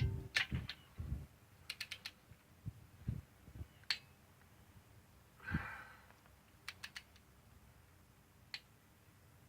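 Hand ratchet wrench clicking in short quick runs, with a few single metal clicks and a dull knock about midway.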